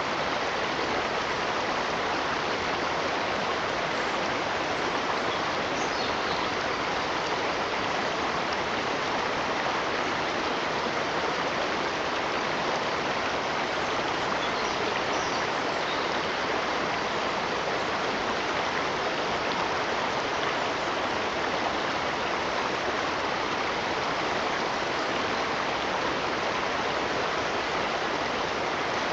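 Running water, a steady even rush like a stream, with no change in level.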